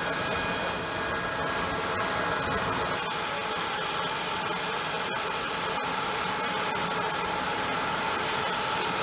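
Aircraft turbine running steadily: an even roar with a high, constant whine, its lower tones changing about a third of the way through.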